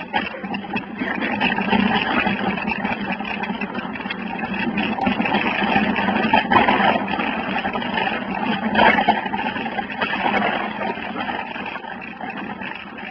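Wind rushing over a phone microphone while riding a bike down a rough trail, with the bike rattling and clattering over the ground.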